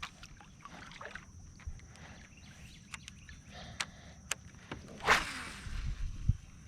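Scattered knocks, clicks and rattles of gear being handled in a kayak, with one loud swish about five seconds in and a short low rumble after it. A steady high insect buzz, like crickets, runs underneath.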